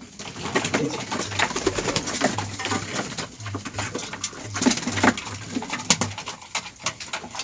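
Domestic pigeons cooing in a small loft, a run of low repeated coos in the middle, over scratching and rustling from the birds moving about.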